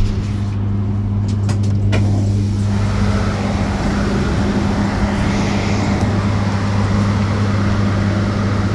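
Inside an electric bus: a steady low electric hum, with road and tyre noise building from about three seconds in as the bus moves off, then running on steadily.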